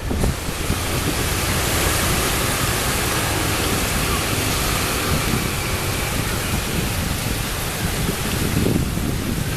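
A train rolling across a railway bridge: a steady rushing noise of steel wheels on the rails that starts abruptly at the outset and eases slightly near the end.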